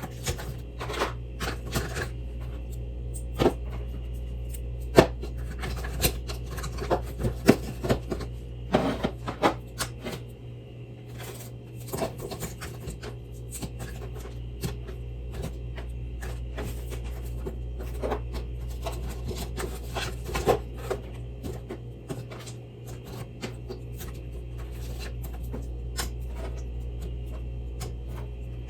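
Irregular sharp clicks, knocks and scrapes, thickest in the first ten seconds and sparser after, over a steady low hum.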